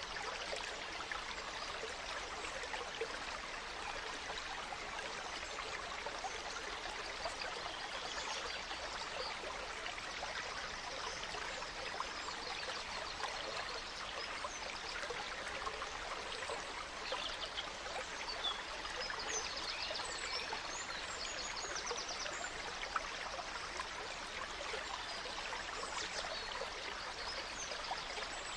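Gentle forest stream running steadily, with small birds chirping and trilling high above it at times, most around the middle and near the end.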